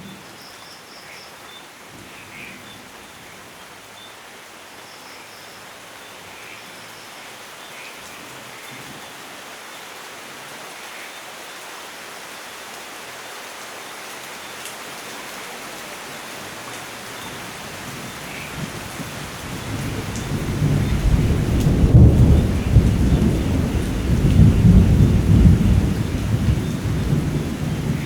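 Steady rain falling, with a long rolling rumble of thunder that builds about two-thirds of the way in and is loudest near the end.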